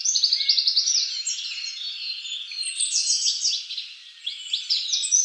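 Several songbirds singing at once, fast trills and short chirps overlapping in a busy chorus, briefly thinning about four seconds in.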